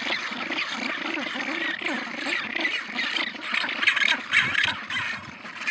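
Many penguins calling at once in a colony, a dense clamour of overlapping squawks and brays.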